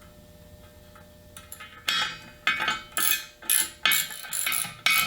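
Ratchet wrench tightening the nut on a clamp-in valve stem. After a quiet second or two come short, sharp ratcheting strokes, about two a second.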